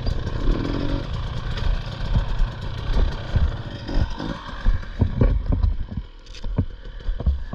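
Dirt bike engine idling, with clattering knocks now and then; the engine sound dips briefly about six seconds in.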